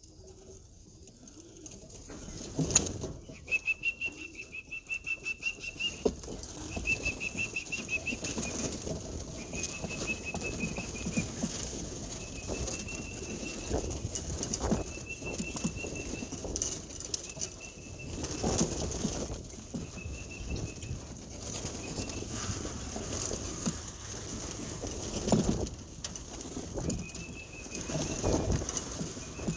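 Racing pigeons flapping their wings as they come down to the loft. A high, warbling whistle sounds about ten times, each note a second or two long, to call the birds in.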